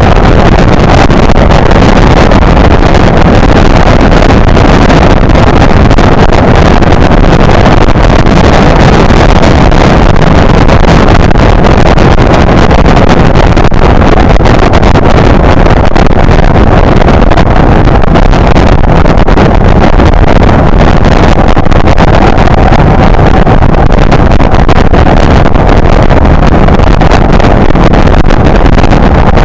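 Motorcycle riding at steady speed, its engine and the wind buffeting a GoPro-type onboard camera blending into one loud, steady rush.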